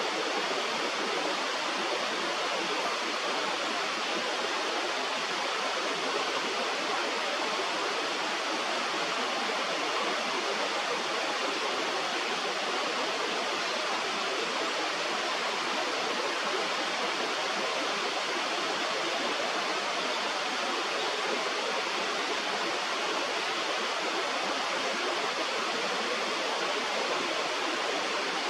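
Steady rush of flowing stream or river water, an even noise with no distinct events.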